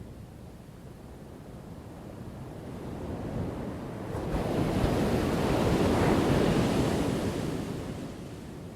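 Ocean waves crashing on a shore: a low wash builds from about three seconds in, one wave breaks loudest a little past the middle, then falls back to a low rumble near the end.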